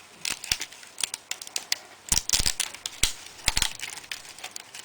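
Irregular small clicks and crackles of plastic laptop parts being handled as the speaker cable connectors are unplugged. The loudest clusters of clicks come about two seconds in and again about three and a half seconds in.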